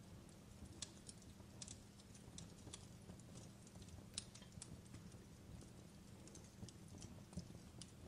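Fireplace fire crackling: faint, irregularly spaced pops and snaps, a few sharper than the rest, over a low steady rumble.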